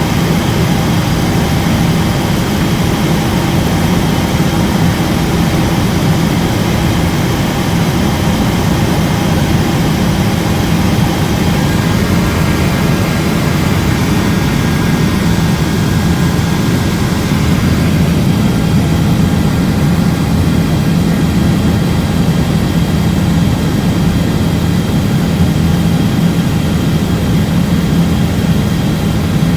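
Helicopter's turbine engine and rotor running steadily in flight: a loud, unbroken drone.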